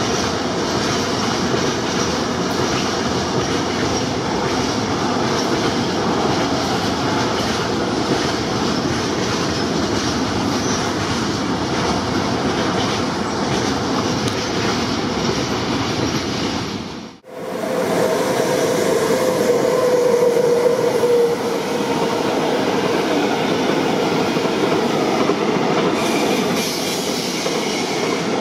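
Intermodal freight train of pocket wagons carrying semi-trailers passing close by, its wheels running steadily over the rails. About two-thirds of the way through the sound breaks off for a moment and another passing freight train takes over, with a wheel squeal for a few seconds.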